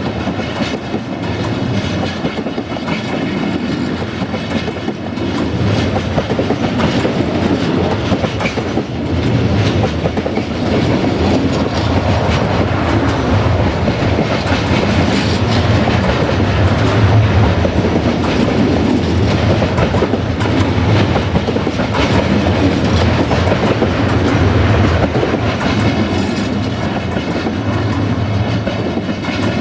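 Loaded intermodal pocket wagons of a freight train rolling past close by: a steady rumble with wheels clicking rhythmically over the rail joints.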